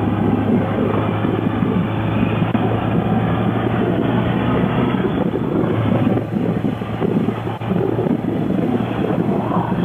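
Motorcycle engine running steadily while riding, a steady low drone under a dense rushing noise of wind and road.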